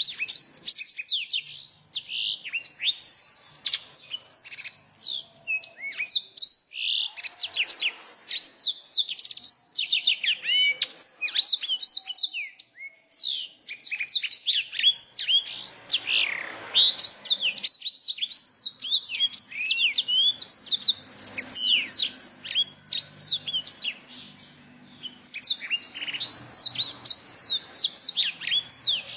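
Songbird song blended from black-throated canary, bar-winged prinia and yellow-fronted canary: a dense, overlapping stream of fast, high chirps, trills and sharp whistled notes. There are brief lulls about 12 and 24 seconds in.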